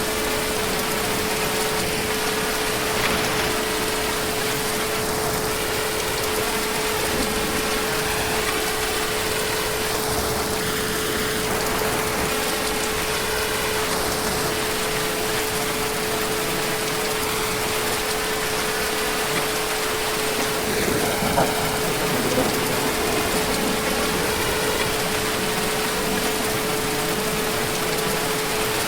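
Heavy rain falling steadily, an even hiss with no thunder, with a faint steady hum at one pitch under it.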